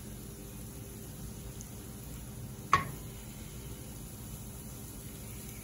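Lion's mane mushroom pieces sizzling in butter and oil in a nonstick skillet. One sharp knock of the slotted spatula against the pan comes a little under three seconds in.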